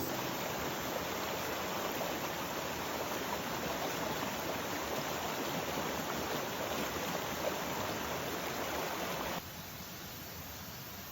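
Mountain stream water rushing over rocks, a steady full noise. About nine seconds in it cuts off abruptly and gives way to a quieter steady hiss.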